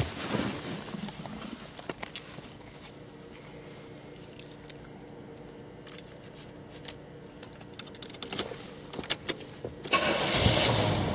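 Keys clicking and jangling at the ignition, then, about a second before the end, the 1974 Chevrolet Monte Carlo's 350 V8 cranks and starts.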